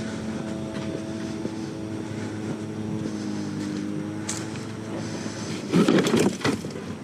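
A vehicle engine idling with a steady hum, and a short burst of clattering about six seconds in.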